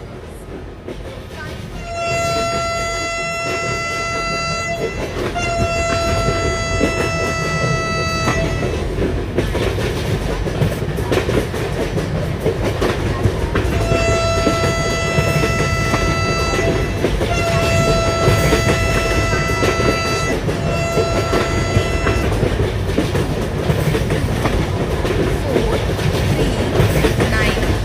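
Vande Bharat Express train running at speed, its wheels clattering over the rails with a rumble that builds steadily. A single-pitched train horn sounds five long blasts: two from about two seconds in, then three more in the middle, the last one shorter.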